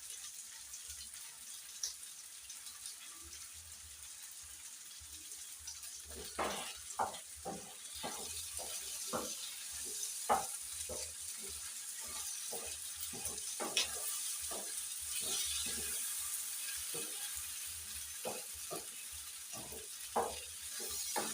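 Chicken gizzards sizzling in a pan of oil. From about six seconds in, a spoon stirring them knocks against the pan two or three times a second.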